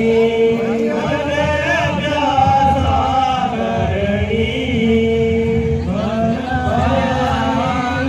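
Voices chanting a melody, with long held notes.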